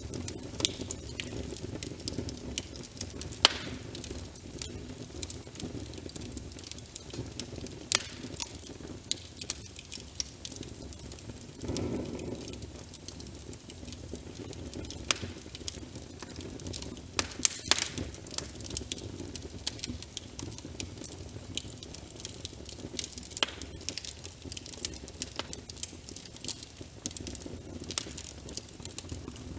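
Wood fire crackling, with irregular sharp pops scattered through, over a steady low hiss of rain. About twelve seconds in there is a brief low swell.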